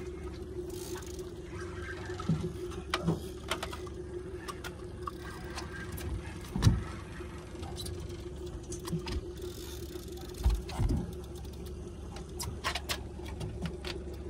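Boat motor running steadily at idle, with scattered knocks and clatter on the boat and one heavier thump about six and a half seconds in.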